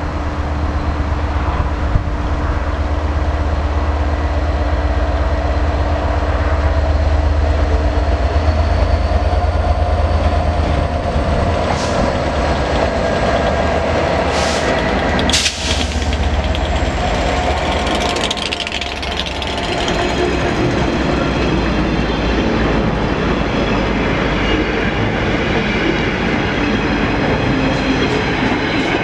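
Two Class 67 diesel locomotives, each with an EMD two-stroke V12, approach and pass close by with a deep engine rumble. After about twenty seconds the rumble gives way to the steady clickety-clack of a long rake of covered car-carrier wagons rolling past.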